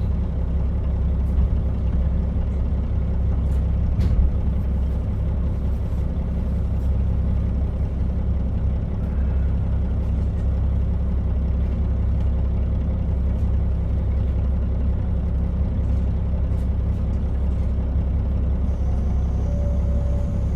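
Steady running sound heard aboard a JR Hokkaido KiHa 40 diesel railcar: a low engine drone and wheel rumble on the rails, with a few sharp clicks. Near the end, a two-note alternating ding comes in over it.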